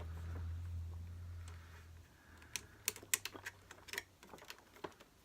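A low hum that fades out after about two seconds, then a run of small, irregular clicks and taps: hand work with screws and plastic parts while the power cable connections of a vacuum cleaner are undone.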